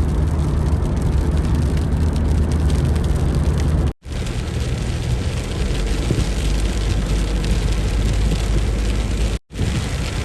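A car driving in rain: steady engine and road rumble with a hiss of rain and wet tyres. The sound cuts out completely for a moment twice, about four and nine and a half seconds in.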